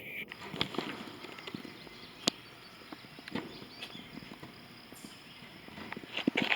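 Irregular footsteps, a scatter of short knocks and crunches, with one sharp click about two seconds in and a quicker run of steps near the end.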